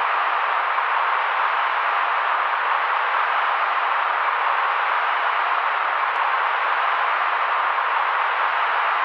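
Steady electronically generated white noise: an even hiss with the deepest and highest tones cut away, strongest in the middle of the range, with no change in level.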